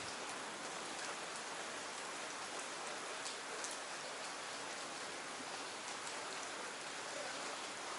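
Steady rain falling in an even hiss, with a few sharper drops ticking close by.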